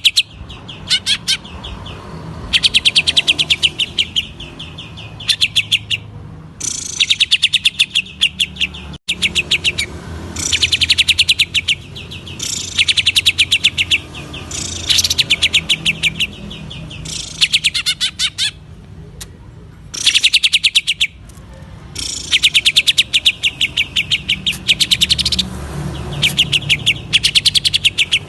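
Green leafbird (cucak ijo) singing in its rapid stuttering 'ngentrok' style: bursts of fast, closely repeated high notes, each lasting about a second, coming roughly every two seconds with short gaps between, over a low hum.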